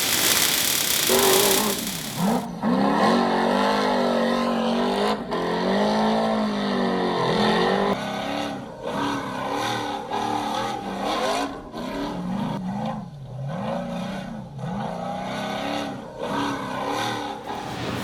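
V8 engine of an off-road 4x4 race truck revving hard, its pitch climbing and dropping again and again as the throttle is worked. A rushing noise comes before the engine in the first couple of seconds.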